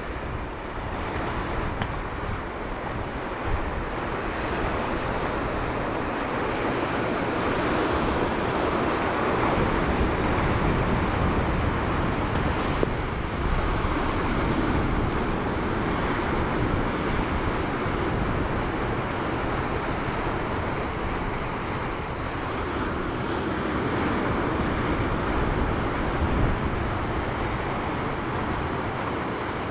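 Black Sea surf breaking and washing on the shore, rising and falling in slow swells, with wind buffeting the microphone as a low rumble.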